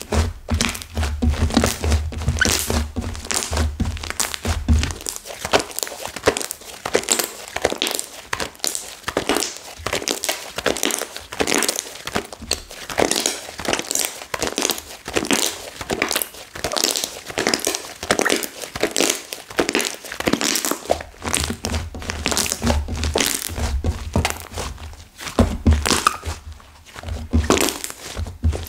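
Hands kneading and squishing slime mixed with hardened clay, giving a dense run of crackles and crunches. Low thumps run through the first few seconds and again near the end.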